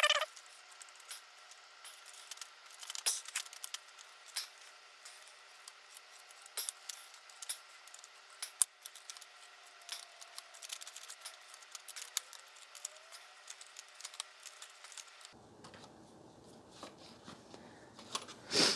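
Scattered light clicks, ticks and scrapes of hands and a utility knife working wound-up hair off the plastic brush bar of a Dyson DC33 vacuum cleaner, with a sharper click at the start.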